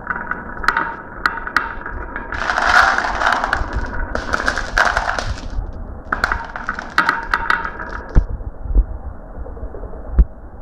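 Marbles rolling and clattering down a marble run, with sharp clicks as they strike the track and each other. The rattling stops about eight seconds in, leaving a few dull knocks.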